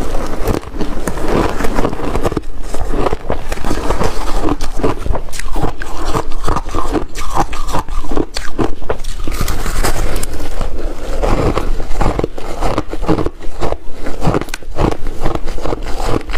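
Shaved ice being bitten and chewed close to the microphone: a continuous run of crisp, irregular crunches.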